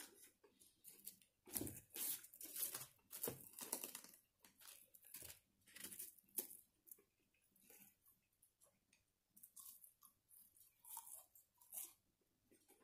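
A person chewing food, in irregular short bursts, busiest in the first half and again near the end.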